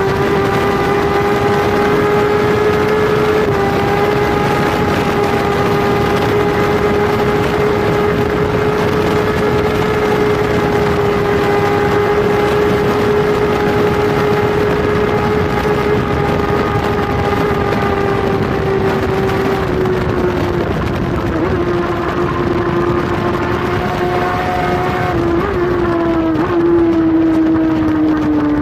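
Kawasaki superbike's inline-four engine running at high revs under steady throttle, heard from onboard over heavy wind rush. In the last third the engine note sags and dips in a few small steps.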